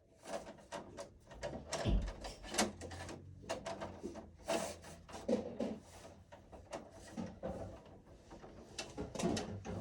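Irregular clicks, knocks and rustles of hands working wiring and tools at a household breaker panel.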